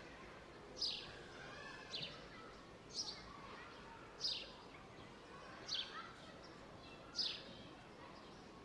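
A bird calling with short, high chirps that fall in pitch, repeated about once a second, over a faint hiss of outdoor background noise.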